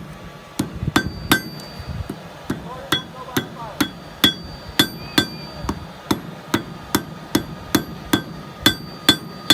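Hand hammer striking hot steel on an anvil, a steady run of about two blows a second, each with a short metallic ring. This is forging the point of a small knife blade.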